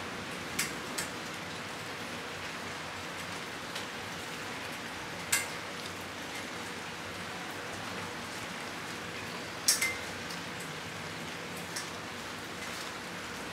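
Steady rain shower, an even hiss, with a handful of sharp clicks from single heavy drops striking something hard; the loudest two come close together about two-thirds of the way in.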